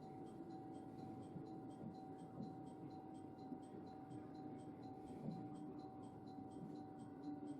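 Interior noise of a JR West local commuter train: a quiet low rumble with a steady hum, and faint even ticking about three times a second.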